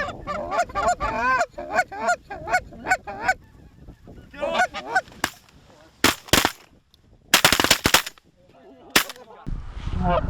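Geese honking and clucking in quick succession, then a volley of shotgun blasts about six seconds in: several shots close together, with one more shot about a second later. Wind buffets the microphone near the end.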